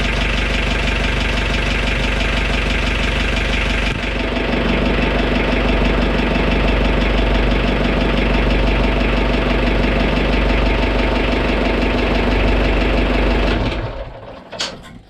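8 m fishing boat's engine running steadily, getting louder about four seconds in. Near the end it winds down and stops within about a second, followed by a couple of sharp clicks.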